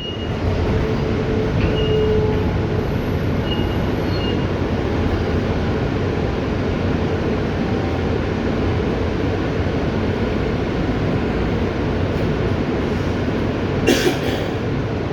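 Inside an R160B Siemens subway car running along the track: a steady rumble of wheels and running gear. A single short, sharp knock comes about 14 seconds in.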